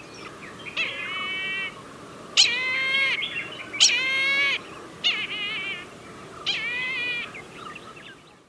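Brahminy kite calling: five drawn-out, wavering calls, each a little under a second long and spaced about a second and a half apart.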